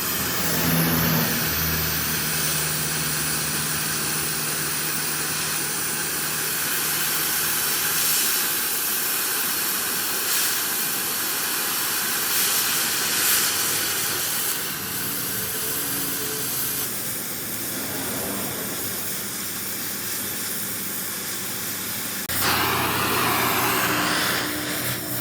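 Steady machine noise: a continuous hiss over a low engine-like hum, changing in character about 22 seconds in.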